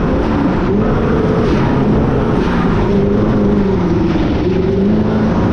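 A car engine running under way, its note rising and falling gently, over a steady rush of wind and road noise.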